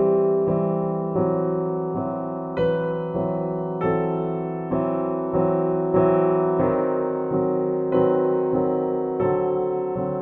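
Background piano music: calm chords struck about once a second, each left to fade.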